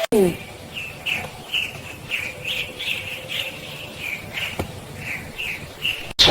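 Small bird chirping over and over, short high chirps about two or three a second.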